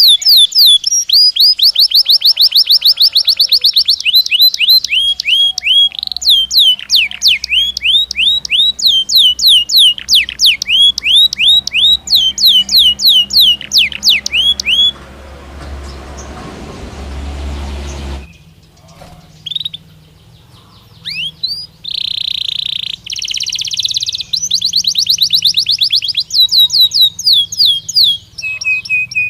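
Belgian canary singing: long rolls of rapid, sharply falling whistled notes repeated several times a second. About halfway through the song breaks off, and a hiss with a low hum fills a few seconds. The bird then returns with scattered notes, a harsher buzzy phrase and fast trills again.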